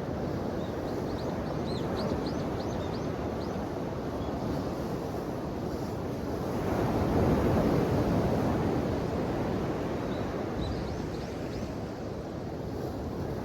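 Ocean waves washing ashore in a steady rush of surf, with one wave swelling louder about seven seconds in. Faint short high chirps come early and again near the end.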